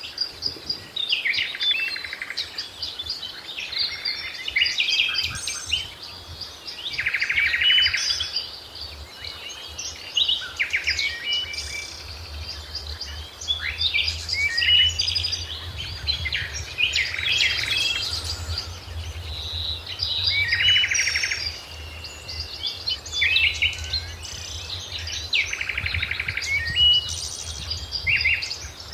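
Several birds calling and singing at once, overlapping chirps and rapid trills without pause, over a faint low hum.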